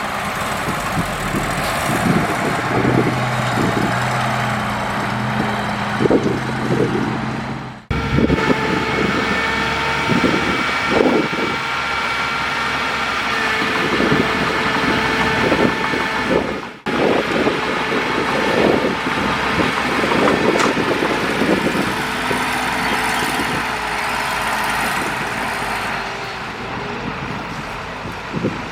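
Heavy diesel earthmoving machinery, a bulldozer and dump truck, running under work, with repeated knocks and clanks over a steady engine note. The sound breaks off abruptly twice, about 8 and 17 seconds in, and picks up again.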